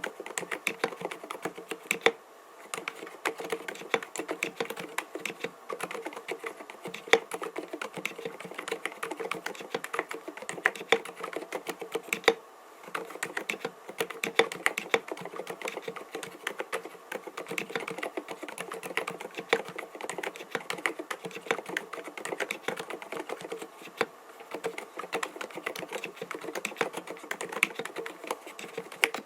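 Continuous fast typing on an mStone Groove T 87A 87-key mechanical keyboard with 45 g silent Milky switches: a dense run of muted keystrokes, pausing briefly about two seconds in and again about twelve seconds in.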